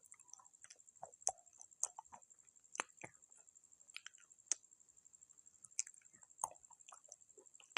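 Pieces of clay pot being bitten and chewed close to the microphone: irregular sharp crunches, several louder ones about a second apart, with a faint steady high whine underneath.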